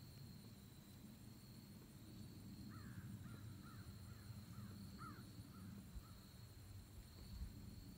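Faint low steady rumble with a thin high whine, and a bird calling in the middle: a quick run of about eight short notes over some three seconds.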